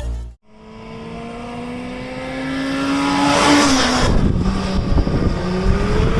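Superbike engine accelerating, its pitch climbing steadily and growing louder, dropping about four seconds in, then climbing again.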